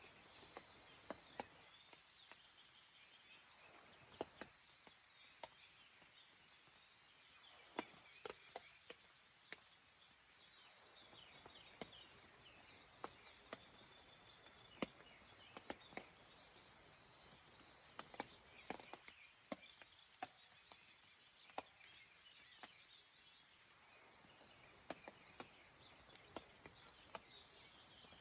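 Faint patter of scattered raindrops, each drop a sharp tap at irregular intervals over a soft hiss, with birds chirping faintly in the background.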